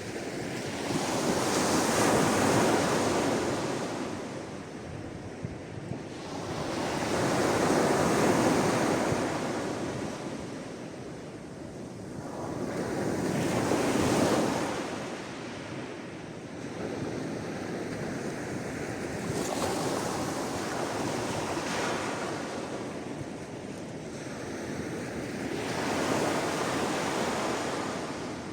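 Sea waves washing in and drawing back, each wave swelling and fading over about six seconds, the first three the strongest and the later ones softer.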